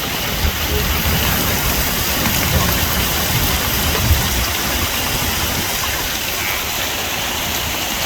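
Heavy rain downpour falling steadily, a loud even hiss, with a few brief low bumps.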